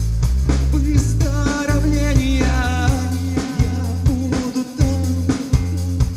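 Live rock band playing: a steady drum beat with bass and guitar, and a sung vocal line with vibrato from about one to three seconds in.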